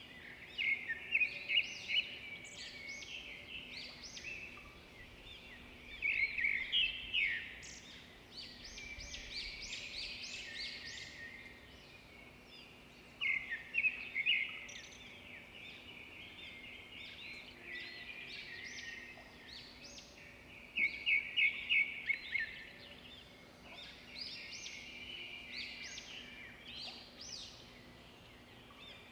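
Small birds chirping and twittering in quick runs of short, high notes. The runs come in bursts every few seconds, the loudest at about a second, six seconds, thirteen seconds and twenty-one seconds in.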